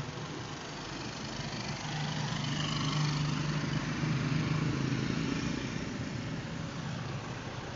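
A road vehicle's engine running at a steady pitch over a hiss of road and wind noise. It grows louder to a peak about three to four seconds in, then eases off somewhat, like a vehicle passing close by.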